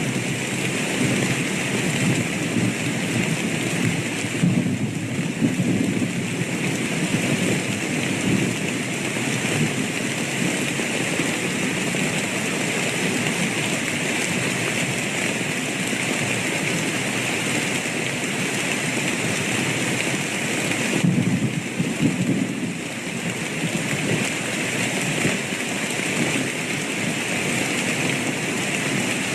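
Steady rain falling, with low rolling thunder rumbling underneath. The thunder swells in the first several seconds and again about two-thirds of the way through.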